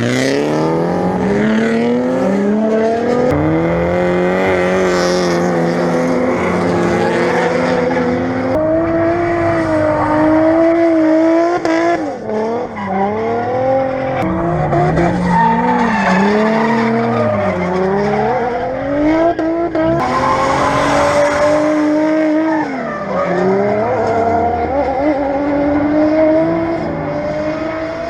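Turbocharged RB25DET inline-six in a drifting Nissan 240SX, revved hard and held high, with the revs repeatedly swinging down and back up through the slide. Tyres squeal against the pavement throughout.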